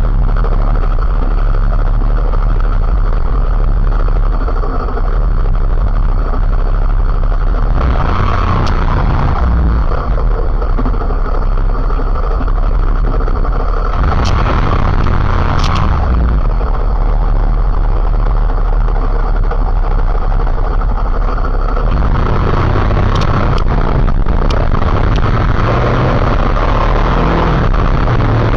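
Motorcycle on the move: steady wind rumble on the microphone with engine and road noise, growing louder for a couple of seconds about eight and fourteen seconds in and again from about twenty-two seconds on.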